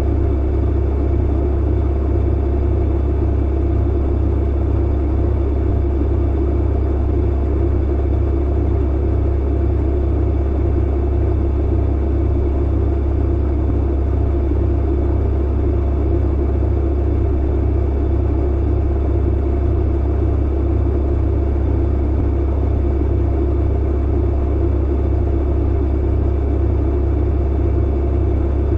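Clothes dryer running, a steady low hum and rumble from the motor and turning drum with a few faint steady tones above it.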